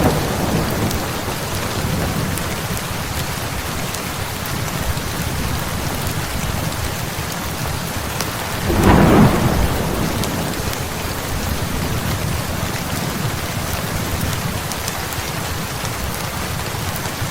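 Heavy rain falling steadily, with one roll of thunder swelling up about halfway through.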